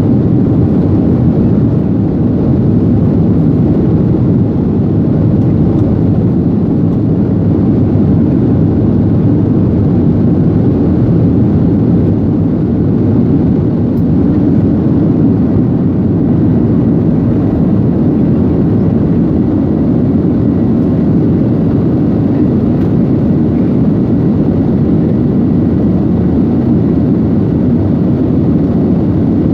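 Steady rumble of a jet airliner heard from inside the passenger cabin: engine and airflow noise, even and unchanging throughout.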